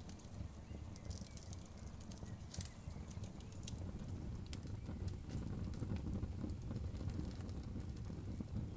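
Wood fire crackling, with irregular sharp pops and snaps of burning logs over a steady low rumble.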